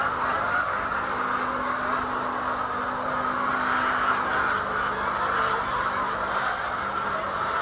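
A large flock of laying hens clucking and calling all at once, a steady dense din of overlapping calls. A faint low hum runs underneath.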